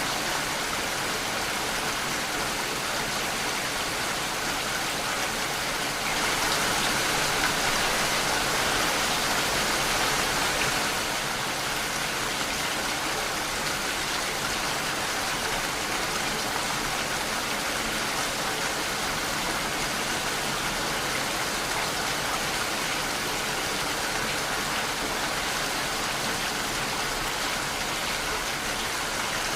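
Steady rain falling, an even hiss without a break. It swells a little louder for a few seconds about six seconds in.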